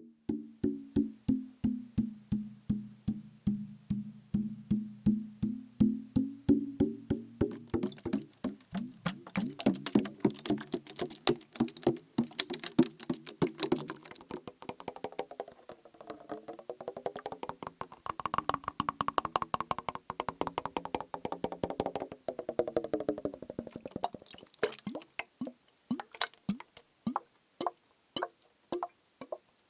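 Rapid tapping on a plastic bottle partly filled with liquid: hollow knocks with a low ringing pitch. The taps grow faster and denser in the middle, and the ringing shifts in pitch, then they thin out to separate taps near the end.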